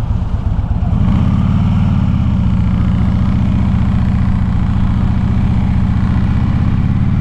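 Harley-Davidson Twin Cam 96 V-twin engine on a 2007 Street Glide, heard from the rider's camera. It is loping at low revs for about a second, then the revs rise and it runs steadily under way.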